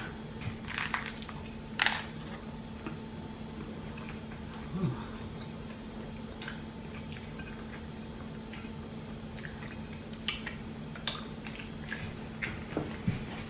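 Close-up eating sounds: scattered crunches and wet chewing of chicken tacos in nacho Doritos shells, over a steady low hum.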